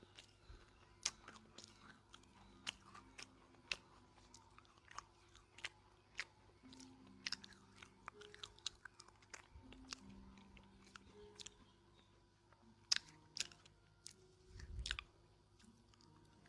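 Person chewing dry, roasted edible clay (nakumatt) close to the microphone: faint, sharp, irregular crunches, about one or two a second. A short low rumble comes near the end.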